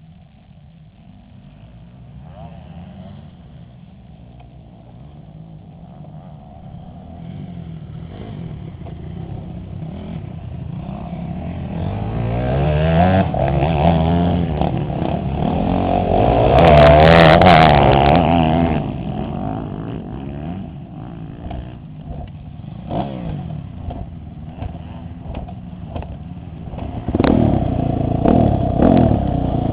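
Motocross dirt-bike engines revving, rising and falling in pitch and growing louder to a peak past the middle before easing off. Near the end there are several sharp clattering knocks and the engine noise rises again.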